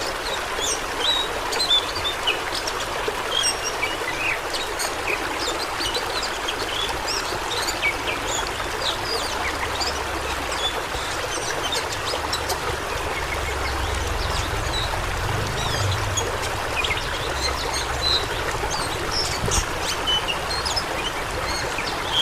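Rushing water of a stream or small waterfall, a steady even rush, with many short high chirps scattered through it.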